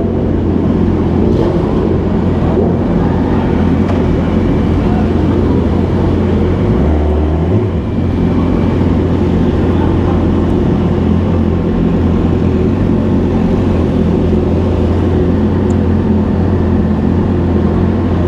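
Motorcycle engine idling steadily, with a brief change in its note about seven seconds in.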